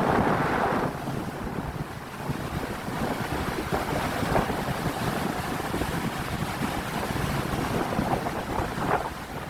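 Strong wind buffeting the microphone over the steady rush of surf, louder in the first second.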